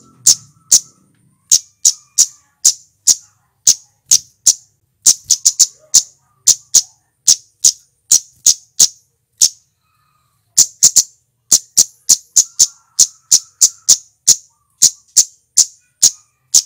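Male flowerpecker (cit keres) giving sharp, high-pitched, clipped 'tsit' calls in a rapid, irregular series, often in quick pairs or triplets, with a pause of about a second around the middle.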